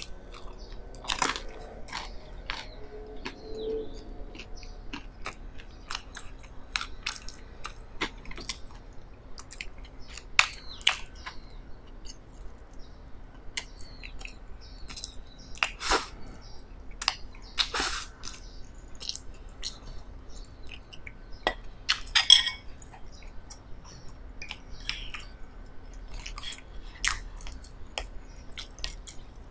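Close-up chewing of soft bread with jam: irregular soft mouth clicks and crackles, with a louder crackly moment about three quarters of the way through.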